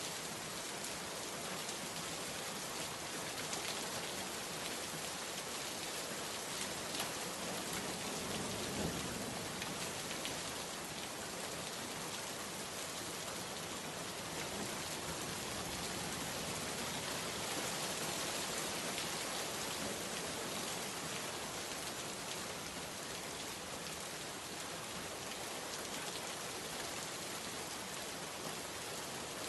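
Heavy rain falling steadily, a dense even hiss with a few louder drop splashes here and there.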